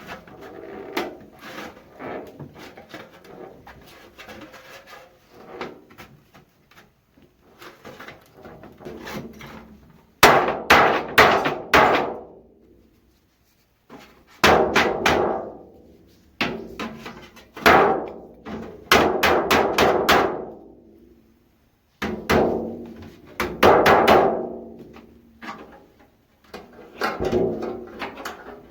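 Hammer blows on the thin sheet steel of an 18-litre square tin can, in quick runs of several strikes with short gaps between runs, each blow ringing on briefly. Lighter tapping comes first, and the louder runs begin about ten seconds in.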